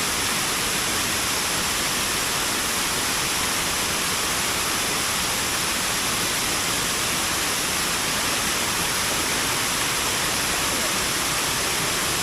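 River water rushing steadily, an even unbroken wash of noise.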